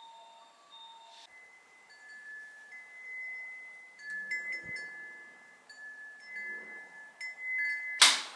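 Chimes ringing: slow, overlapping high notes held and changing every second or so.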